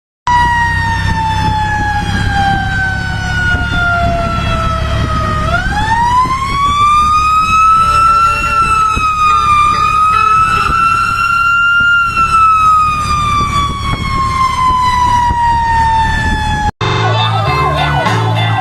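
Firefighters' siren wailing in one slow cycle, over a steady low rumble: the pitch slides down for about five seconds, sweeps back up, wavers, then falls away again. It cuts off abruptly near the end.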